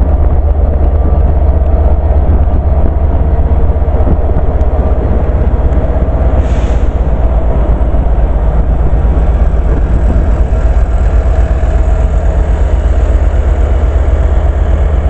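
Class 67 diesel-electric locomotive's two-stroke EMD V12 engine idling in the station, a loud, steady, heavy low rumble with a constant hum above it. A short hiss is heard about six and a half seconds in.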